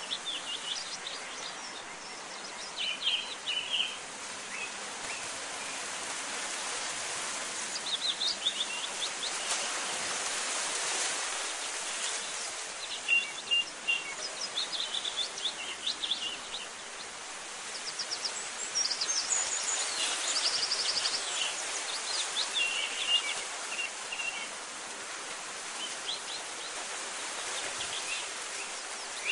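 Small birds chirping and giving rapid trills in scattered bursts over a steady hiss of outdoor ambience.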